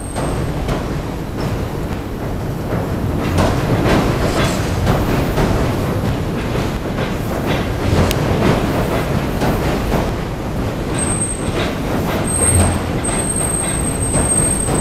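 Tobu Railway train rumbling across the steel Sumida River railway bridge, with wheel clacks over the rail joints. A thin high wheel squeal joins in over the last few seconds.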